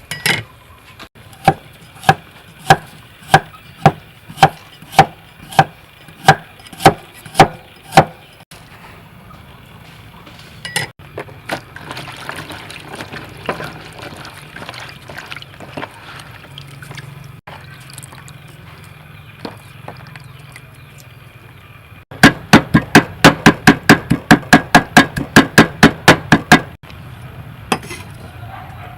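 Repeated sharp knocks: a steady series of about two a second for several seconds, then, after a pause, a fast run of about five a second.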